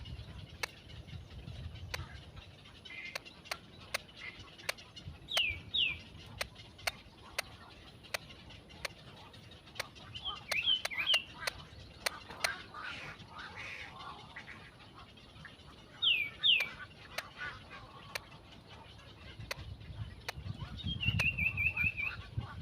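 Bird chirping in short falling calls: single chirps and pairs, then a quick run of several near the end, over scattered sharp clicks.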